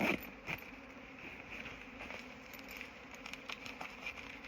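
Honeybees buzzing: a steady low hum, with a few faint clicks and rustles over it.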